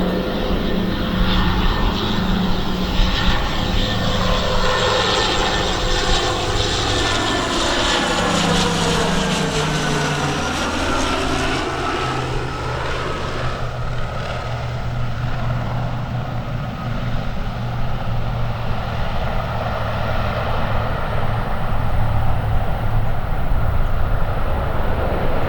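Embraer 120 Brasilia twin-turboprop engines and propellers running as the aircraft passes, their tones falling in pitch about a third of the way in, then a steady low drone.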